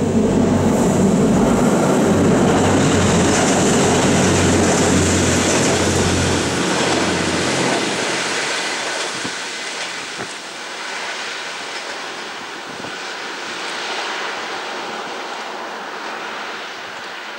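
Diesel railcar passing close by and pulling away. Its engine drone and wheel rumble are loud at first, then fade from about eight seconds in as it recedes.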